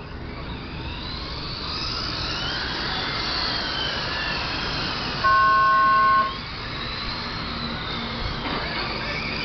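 Several RC race cars running laps, their motors whining with pitch rising and falling as they pass. A loud one-second electronic beep about five seconds in, the race timing system's start tone.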